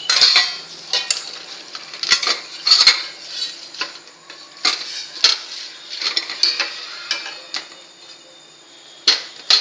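A metal spoon stirring in a cooking pan, clinking and scraping against its sides at an irregular pace, over light sizzling from the tempering. The strokes thin out and get quieter near the end.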